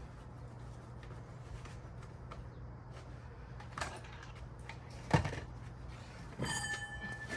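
A steady low hum with a few separate knocks and clunks, the sharpest about five seconds in. A faint, steady high tone starts near the end.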